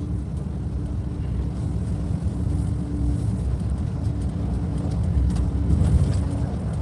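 Steady low engine and road rumble of a moving bus, heard from inside, with a faint steady hum.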